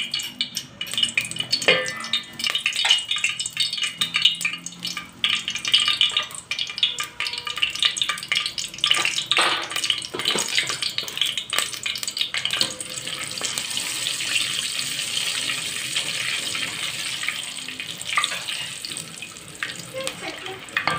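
Cumin frying in hot vegetable oil in a pot, sizzling, while a spoon scrapes and knocks against the pot as it is stirred. The stirring clicks are frequent in the first half; after that a steady sizzle dominates.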